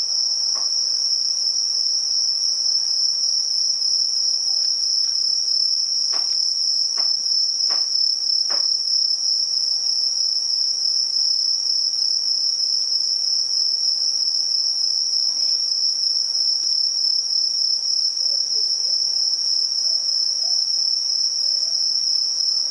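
Crickets singing in one continuous high-pitched trill at a steady level. There are four faint clicks a little over a third of the way through.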